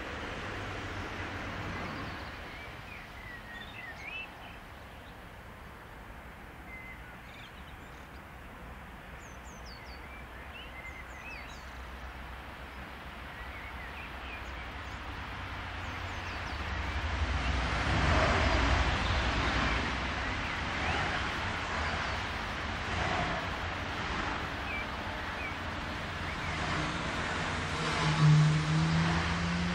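Intermodal freight train rolling past, a steady low rumble of wagons on the rails that swells about halfway through, with birds chirping during the first part. Near the end a rising whine comes in as a Siemens ES 64 F4 (Class 189) electric locomotive approaches.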